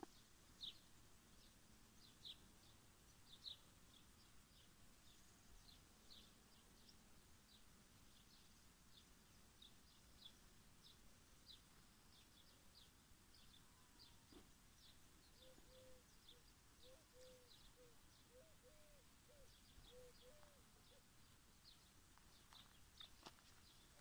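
Faint countryside ambience with small birds chirping: short high chirps a couple of times a second throughout. A brief series of lower, warbling notes comes in around the middle.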